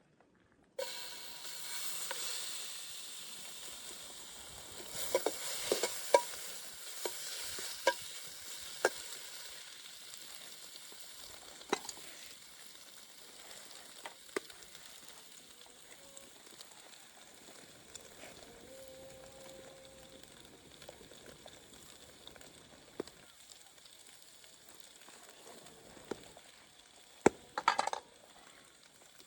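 Lamb tail fat sizzling in a pan, the hiss strongest at first and slowly dying down, with scattered sharp taps and scrapes of a utensil against the pan.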